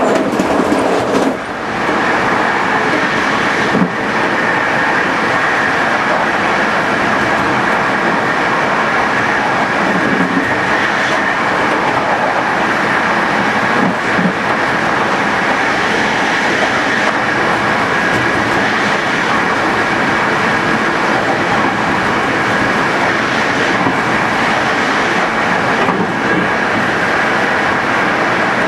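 Passenger train running at speed: steady wheel-and-rail noise with some clickety-clack, and a faint high hum running through it. The level drops briefly about a second in.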